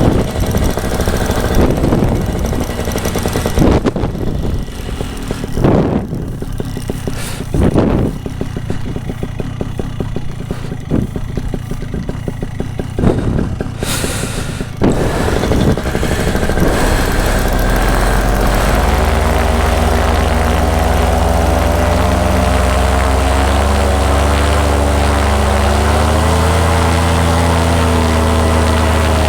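Irregular low rumbling bursts, then about 16 seconds in a paramotor engine starts and settles into a steady idle, its pitch rising slightly a little later.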